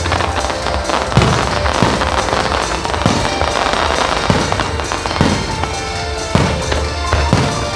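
Fireworks shells bursting about once a second, with crackling in between, over loud music playing with the display.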